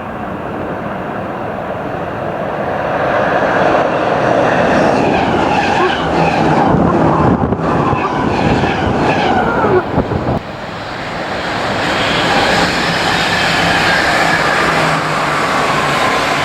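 Train passing on the rails, a loud rushing noise building over the first few seconds. It dips briefly about ten seconds in, then carries on with a thin steady whine near the end.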